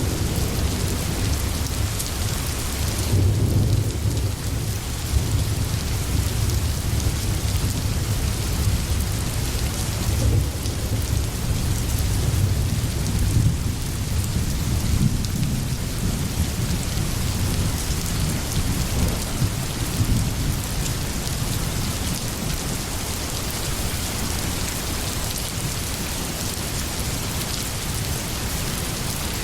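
Steady rain hissing, with a deep rumble underneath that swells in the first half and fades toward the end.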